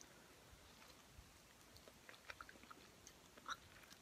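Faint mouth sounds of someone chewing a hot chicken wing: scattered soft clicks and smacks, the loudest about three and a half seconds in.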